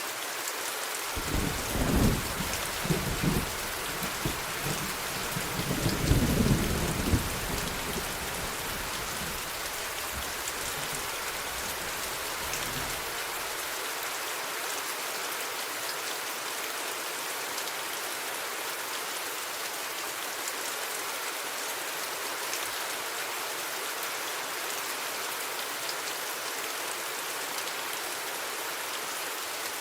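Steady rain falling, with a roll of thunder starting about a second in that peaks twice, rumbles on and fades out around halfway through.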